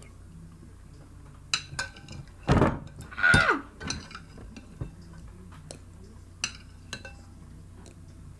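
Spoon clinking against a soup bowl several times, with a loud slurp of soup a little before the middle, falling in pitch.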